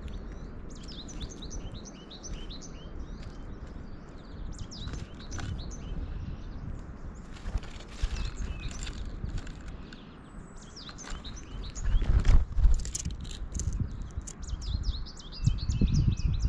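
Small songbirds chirping in quick, high-pitched bursts, with several birds calling in clusters. Low fluttering thumps and rumbles come in about three-quarters of the way through and again at the end.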